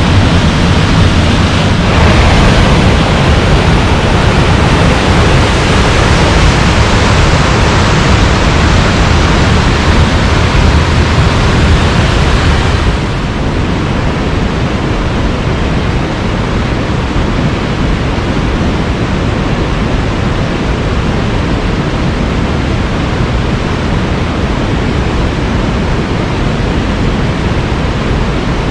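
Waterfall rushing: a loud, steady noise of falling water. It shifts slightly about two seconds in and drops a little in level about thirteen seconds in.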